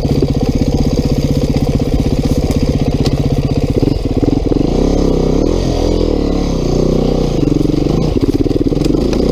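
2019 Beta 390 RR-S four-stroke single-cylinder dirt bike engine running steadily at low revs, then from about four seconds in revving up and down repeatedly as the throttle is opened and closed.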